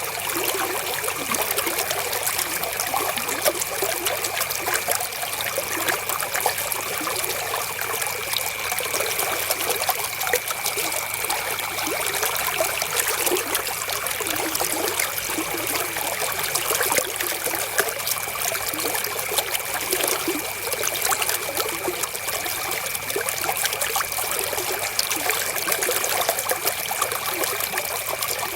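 River water flowing steadily, a continuous trickling rush with no breaks, and a faint steady high tone underneath it.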